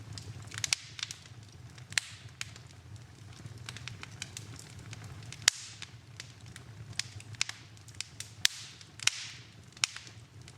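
Wood fire in a fireplace, crackling with irregular sharp pops several times a second over a steady low rumble of the flames. The loudest pops come about halfway through and again near the last third.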